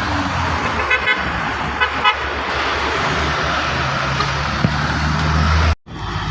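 Truck traffic on the climb: engines running steadily, with short horn toots about a second in and twice more around two seconds in.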